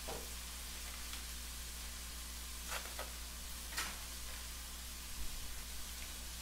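Faint sizzling of ground pork and diced vegetables cooking in a wok under freshly poured tomato sauce, over a steady low hum, with a few soft clicks about three seconds in.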